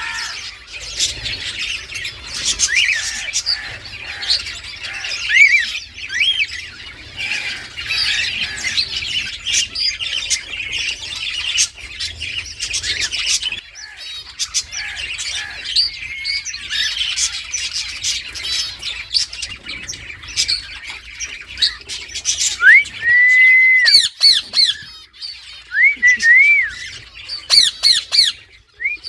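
Indian ringneck parakeet squawking and chattering steadily, with a few whistled notes that rise and fall near the end.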